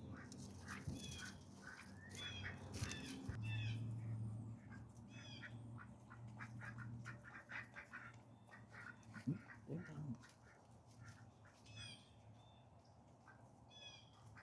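Ducks feeding, with occasional quacks, while small birds chirp repeatedly with short, high calls. A faint low hum sits underneath.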